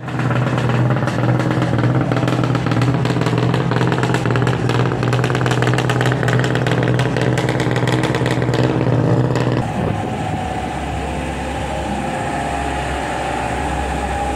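Rally car engine running loudly at a steady pitch, with a dense crackle over it; about ten seconds in it cuts to a quieter, lower engine hum.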